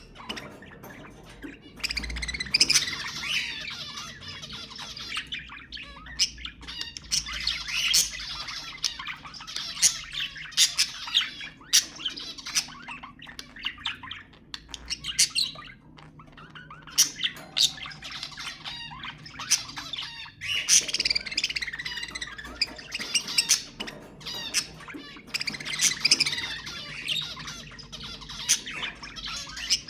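A flock of budgerigars chattering and warbling continuously, with frequent sharp squawks and high chirps. This is the busy flock chatter played to encourage budgies to breed.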